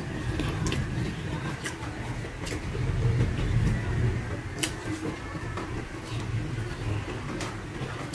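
Close-miked eating by hand: chewing and lip-smacking, with a handful of sharp, irregular mouth clicks over a steady low rumble.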